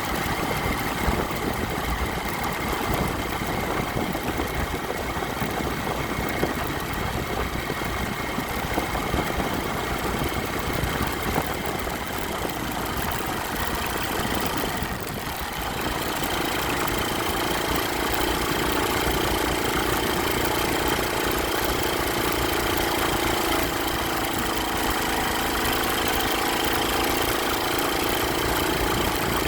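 Motorcycle engine running steadily. About halfway through, the level dips briefly and then a steadier, more even engine hum sets in.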